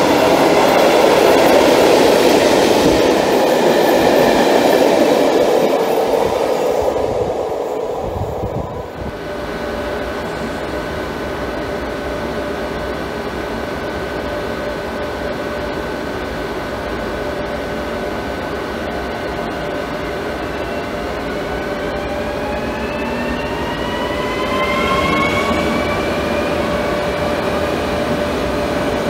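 Open freight wagons of a freight train rolling past, fading away about eight seconds in. Then a Škoda RegioPanter electric multiple unit hums steadily, and its traction motors give a whine that rises in pitch as it accelerates away from the platform.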